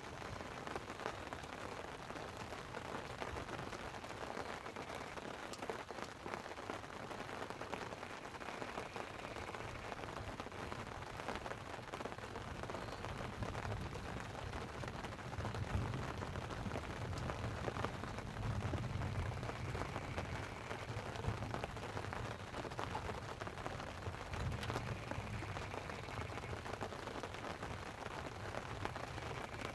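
Light rain falling on a tent: a steady hiss full of small drop ticks. A low rumble of distant thunder comes in about halfway through and fades a few seconds before the end.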